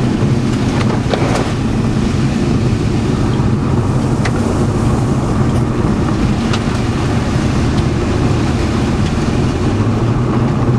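Steady car-cabin noise from a moving vehicle, an even engine and road hum with a few light clicks and ticks from inside the car.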